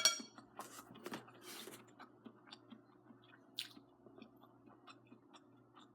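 Close-up chewing of braised noodles with string beans: soft, wet mouth sounds and small lip and tongue clicks. Right at the start a brief ringing clink of an eating utensil against the dish.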